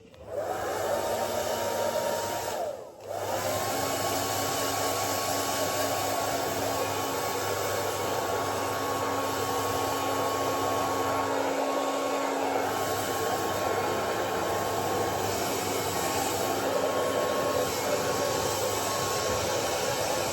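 Hair dryer blowing steadily, with a constant whine over the rush of air, drying a dog after her bath; it cuts out briefly about three seconds in and then runs on.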